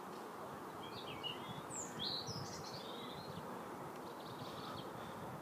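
Birds chirping in short bursts over a steady background hum of outdoor noise, the chirps clustered between about one and three seconds in.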